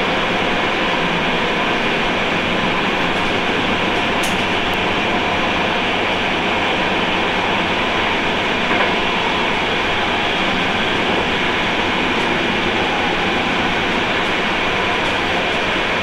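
Train running at speed, heard from the driver's cab: a steady, even rumble and rush of wheels and motion noise, with no clear rhythm of rail-joint clicks.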